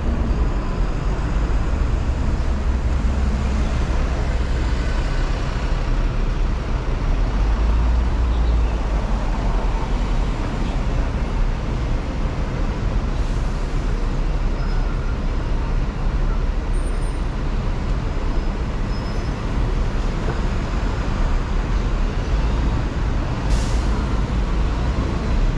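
Hong Kong double-decker tram running, a steady low rumble of motor and wheels on the rails mixed with road traffic. A brief hiss comes a couple of seconds before the end.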